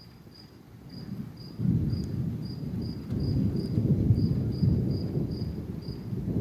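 Crickets chirping steadily, about two to three high chirps a second. About a second and a half in, a louder low rumble swells up and rolls on unevenly.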